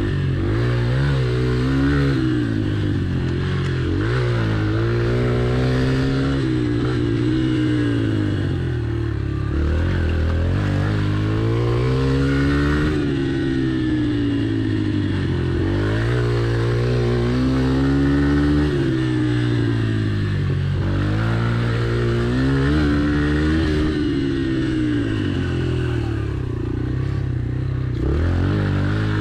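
Yamaha TT-R pit bike's single-cylinder four-stroke engine being ridden hard, revving up and backing off over and over, its pitch climbing and dropping every couple of seconds as the throttle is worked between turns.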